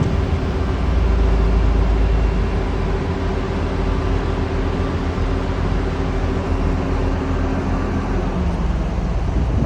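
Engine of heavy demolition machinery running steadily, a low drone with a steady hum whose tone shifts slightly near the end.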